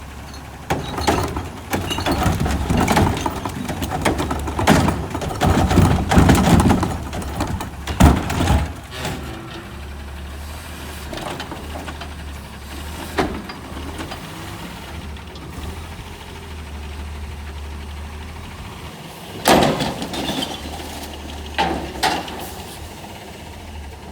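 Garbage truck's engine running steadily, with a dense run of bangs and clatter over the first nine seconds and a few more knocks later, as a cart is lifted, shaken and slammed by the truck's arm.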